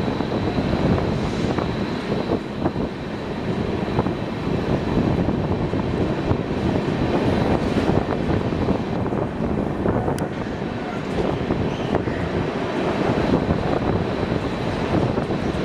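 Howrah–Mumbai CSMT Mail passenger train running, heard from on board: a steady rumble and rattle of the wheels on the track, with a thin steady high whine.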